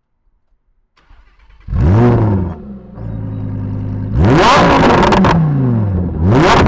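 Lamborghini Huracán EVO's naturally aspirated 5.2-litre V10 starting up. A brief starter whir gives way to a loud flare that rises and falls, then the engine settles to a steady idle. It is then blipped twice in sharp revs that rise and fall, heard right at the exhaust, very loud with slight distortion.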